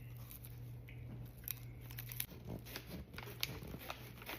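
Close-up crunching and biting of a crunchy snack: a run of irregular sharp crunches.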